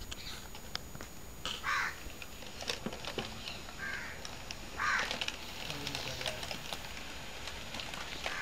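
A bird calling three times, a second or two apart, over scattered faint clicks.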